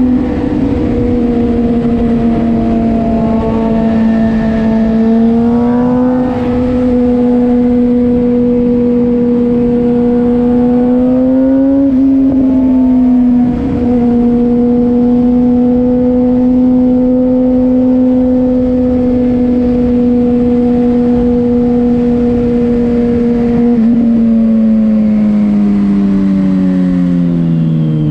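Motorcycle engine running at a steady cruise, its pitch held nearly constant. There is a brief dip about halfway through, like a gear change, and the revs fall steadily over the last few seconds as it slows.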